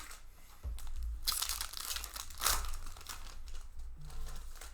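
Foil wrapper of a Magic: The Gathering booster pack crinkling as it is torn open, with two louder rips about a second apart.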